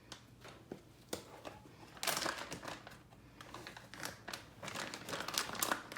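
Plastic bag of chicken in buttermilk crinkling and rustling as it is handled, with scattered clicks, then longer crinkly stretches about two seconds in and through the second half.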